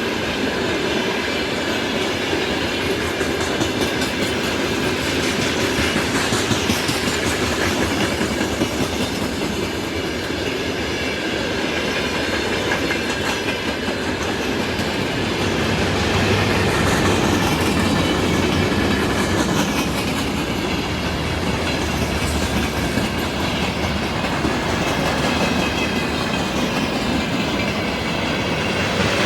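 A train rolling past at close range, its cars clacking steadily over the rail joints, with faint squealing from the wheels.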